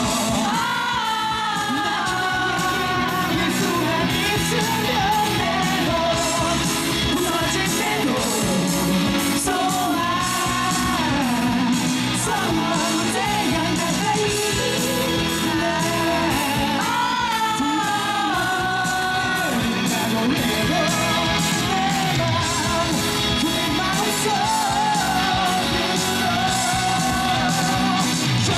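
Live pop-rock band music: a sung or lead melody line over guitar and a steady drum beat, with audience yelling mixed in.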